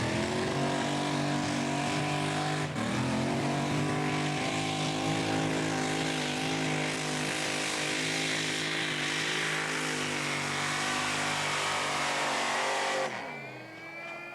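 Tractor-pulling funny car's 1,400-horsepower racing engine running hard at high, steady revs under full throttle, with a brief stumble about three seconds in. Near the end it comes off the throttle and the engine note falls away.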